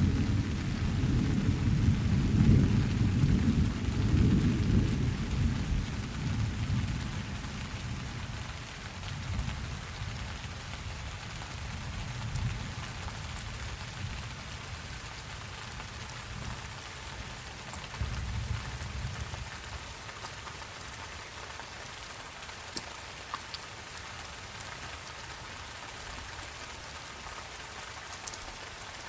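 Steady rain with a long rolling rumble of thunder that is loudest at the start and fades over several seconds, with a shorter rumble about two-thirds of the way through; after that only the rain remains.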